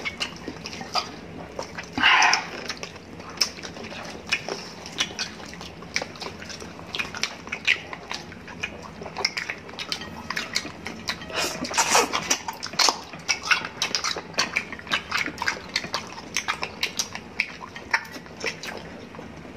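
Close-miked eating sounds: chewing and lip-smacking of roast chicken, with meat and skin being pulled apart by hand, as many quick wet clicks. One louder short burst comes about two seconds in, and the sounds bunch up near the middle.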